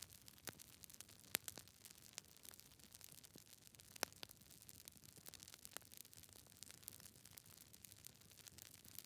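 Wood fire in a fireplace crackling: irregular small pops and snaps from the burning logs over a faint hiss, with louder snaps about a second and a half in and again about four seconds in.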